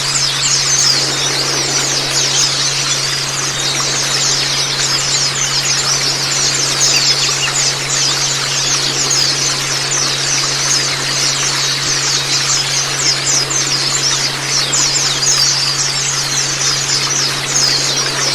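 Many white-eyes (Zosterops) chirping in a dense, rapid, high-pitched stream of short notes, over an even rush of water and a low steady hum.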